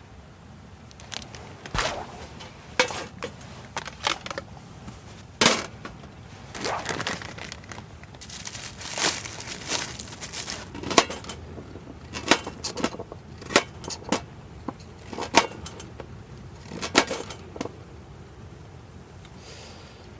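Camp gear and cookware being handled: a string of irregular knocks and clinks, with a longer rustle or crinkle about halfway through.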